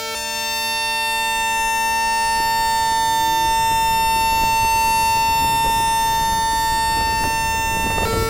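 Mitsubishi GTO chopper controlling the DC traction motors of an SMRT C151 train, picked up magnetically with an inductor coil: a steady high whine held at one pitch, growing louder in the first second. Underneath, a rising rough noise comes from the DC power rail and track equipment.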